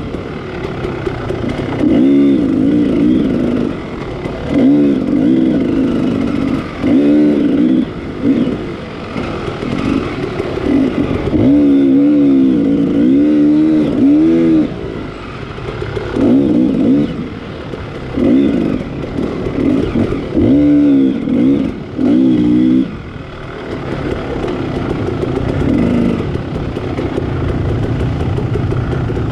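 Dual-sport motorcycle engine revving in repeated bursts of throttle, the pitch rising and falling every second or two. Near the end it settles into steadier, lower running.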